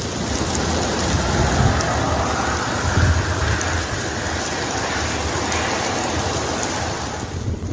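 Heavy rain pouring down as a loud, steady hiss, with a low rumble underneath.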